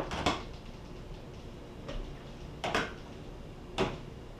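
A few light clicks and knocks, spaced a second or so apart, over quiet room noise.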